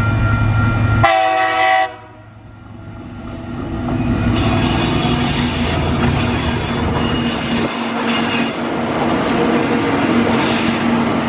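TasRail TR-class diesel locomotives hauling a freight train, running low at first. A short horn blast sounds about a second in and cuts off sharply. From about four seconds in the wagons rumble past with high-pitched wheel squeal coming and going.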